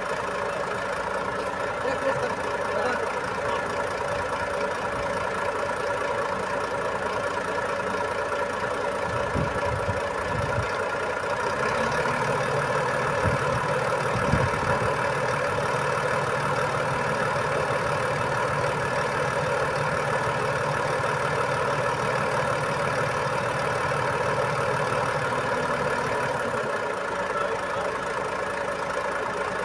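Truck engine idling steadily, with a few low thumps around ten and fourteen seconds in. A deeper hum joins about twelve seconds in and drops away near the end.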